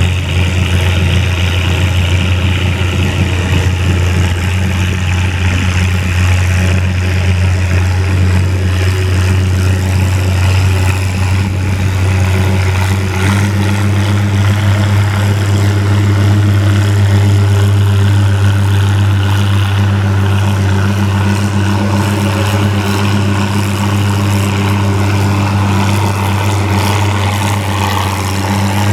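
Antique farm tractor engine running steadily with a deep, even hum that holds its pitch throughout.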